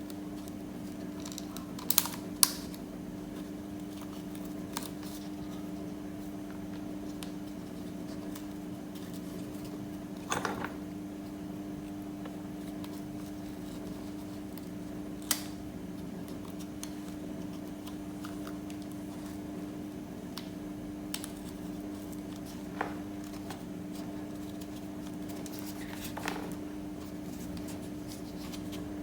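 Small high-speed DC hobby motor running steadily with an even hum, with a few sharp clicks and taps scattered over it, the loudest pair about two seconds in.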